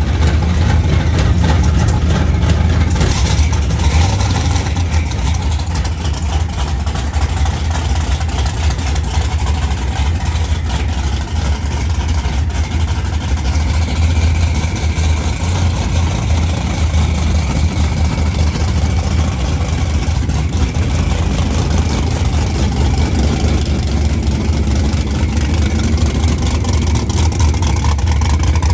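A vehicle engine running with a steady, loud low rumble and no clear revving.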